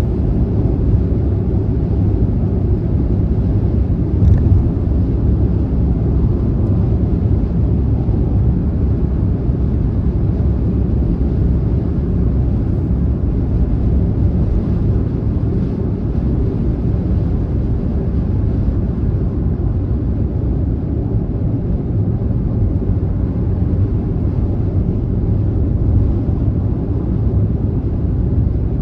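Car driving at steady speed on a highway: a constant low rumble of road, tyre and engine noise, with no change in pace.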